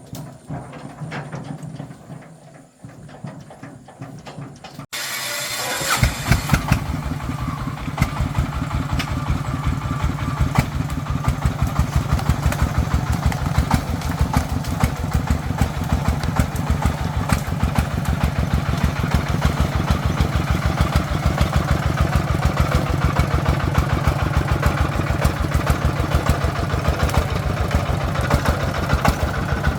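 Single-cylinder diesel engine of a Vietnamese agricultural truck starting up about five seconds in, then running with an even, rapid chug.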